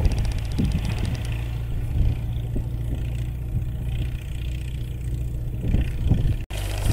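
Tractor engine running steadily as it pulls a seed drill across the field, with a brief dropout near the end.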